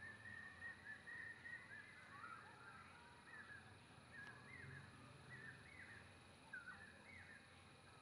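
Faint bird calls: a long, steady whistled note at the start, then a string of short, curving whistled notes, over a low background hum.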